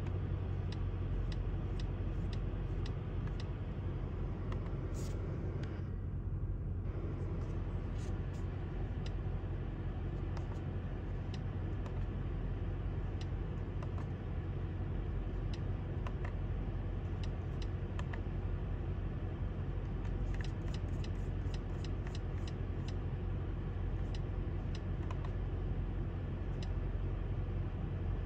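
Mercedes-AMG GT63 S's twin-turbo 4.0-litre V8 idling, a steady low rumble, with scattered light clicks and taps over it.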